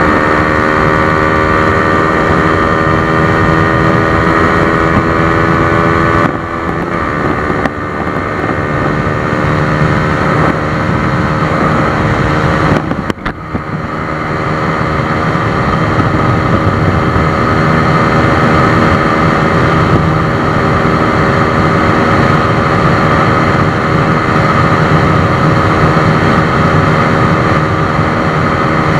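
A 150 cc single-cylinder motorcycle engine running hard at highway speed, with wind rushing over the microphone; its pitch climbs slowly for the first few seconds. The engine sound dips about six seconds in and drops out more sharply for a moment around thirteen seconds in, then holds steady.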